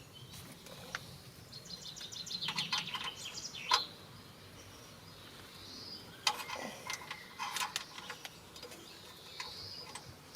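Birds chirping in quick runs of short high notes over a faint steady outdoor background.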